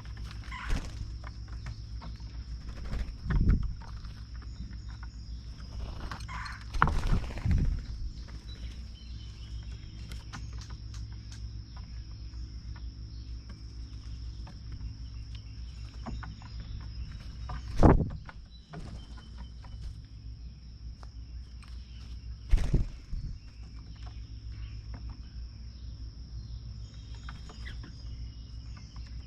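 Outdoor ambience at a bird feeder: a steady high insect drone with faint bird chirps, broken by about five dull thumps, the loudest about two-thirds of the way in.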